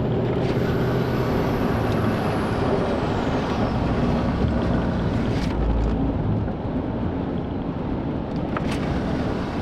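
Car driving at speed, heard from inside the cabin: steady road and engine noise with wind rushing past, and a heavy low buffet about six seconds in.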